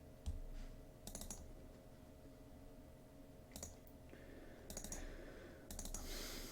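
Scattered clicks of a computer mouse and keyboard, single or a few in quick succession with pauses between, over a faint steady hum.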